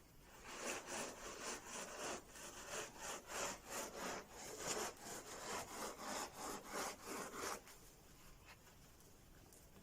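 Dried okra pods being rubbed back and forth inside a cloth to strip off their dust and fuzz: a rhythmic rasping rub, about two strokes a second, that stops a couple of seconds before the end.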